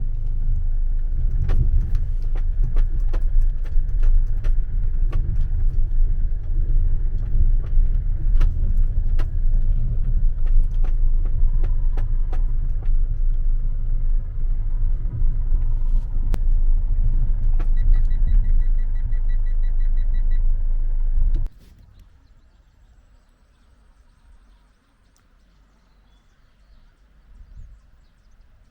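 Kia Carnival minivan driving: a loud, low rumble with scattered sharp clicks and knocks. A rapid electronic chime beeps for about two seconds near the end, and then the rumble cuts off suddenly, leaving only a faint background.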